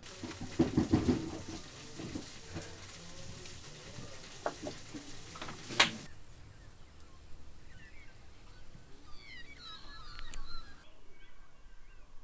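Muffled knocks and two sharp clicks, then birds chirping in short quick phrases over a quiet rural background.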